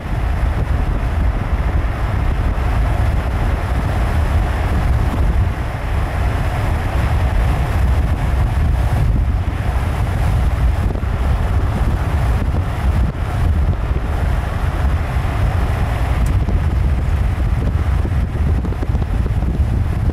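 Container freight train rolling past with a steady low rumble, mixed with heavy wind buffeting on the microphone.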